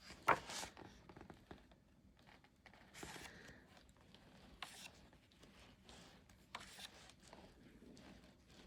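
Pages of a large hardcover art book being turned, a handful of short papery swishes, the first the sharpest.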